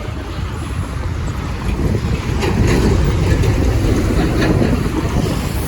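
Wind buffeting the microphone over a steady low rumble, growing a little louder about halfway through.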